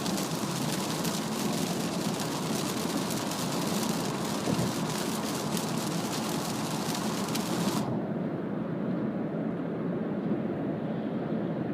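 Heavy rain pelting the car's roof and windscreen, heard from inside the cabin, over steady tyre and road noise on a wet expressway. About eight seconds in, the rain noise stops suddenly, leaving the lower road rumble.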